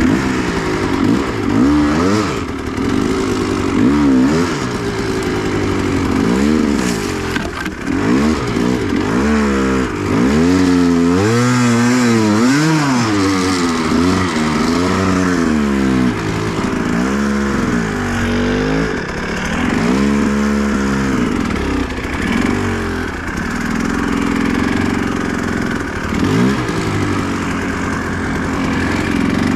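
Enduro motorcycle engine revved hard again and again, its pitch swinging up and down every second or two.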